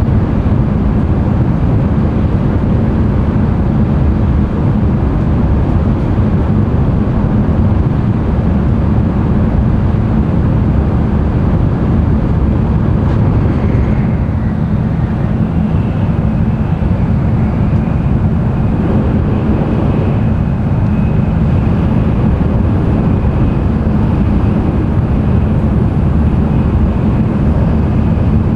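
Cabin running noise of an N700-series Tokaido Shinkansen at speed: a steady, loud low rumble of wheels on rail and rushing air. A faint high tone comes in about halfway through.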